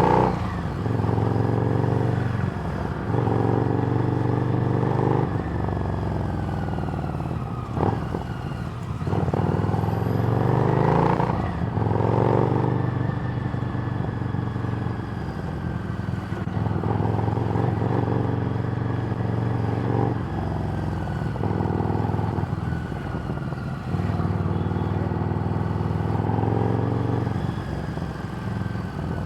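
Harley-Davidson Street Rod's 750 cc V-twin through a Screamin' Eagle exhaust, riding along: the engine note climbs and drops over and over as the bike accelerates and eases off.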